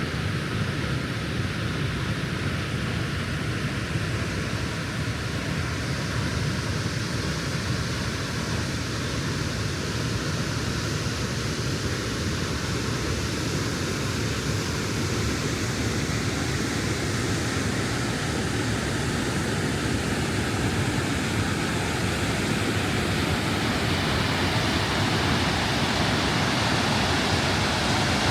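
Gljúfursárfoss, a 45-metre waterfall in very high flow, pouring into its ravine: a steady, full rush of falling water that grows slightly louder in the last third.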